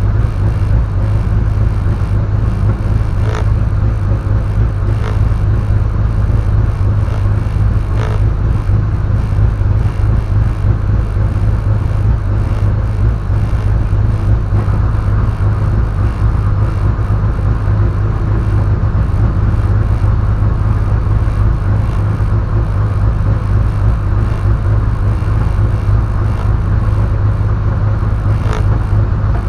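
Peugeot 106 race car's engine idling steadily, heard from inside the stripped cabin, with a few faint clicks.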